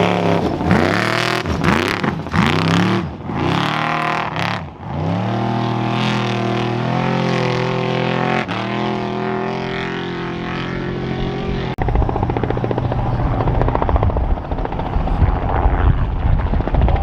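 Trophy truck race engine revving hard in repeated rising and falling surges, then holding a steady high note. About twelve seconds in it cuts abruptly to a rougher, lower rumble with a fast pulse.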